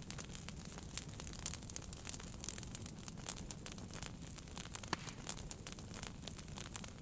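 Wood fire burning in a fireplace, with a low rumble of flames under frequent crackles and pops; one sharper pop stands out about five seconds in.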